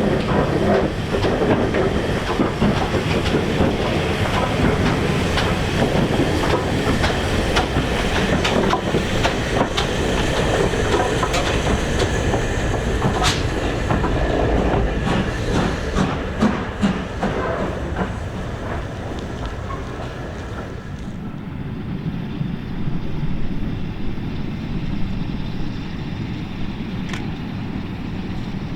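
A train running over jointed track, its wheels clicking over the rail joints. About two-thirds of the way through, the sound turns duller and a little quieter.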